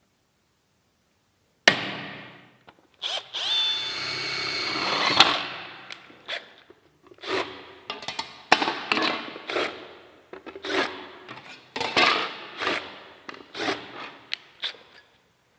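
Workshop tool sounds: a sharp knock, then a power tool such as a drill running for about two seconds, followed by a string of irregular knocks and clicks as parts are handled and struck.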